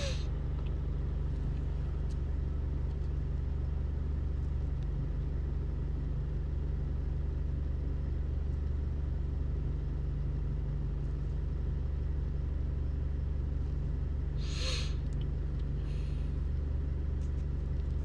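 A steady low background rumble, like a running vehicle or machine hum, with a brief rustle about three seconds before the end.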